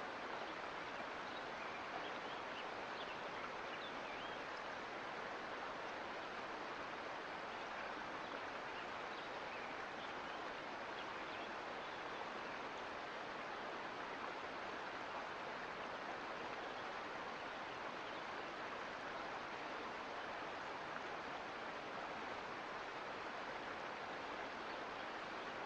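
Mountain creek flowing: a steady, even rush of water.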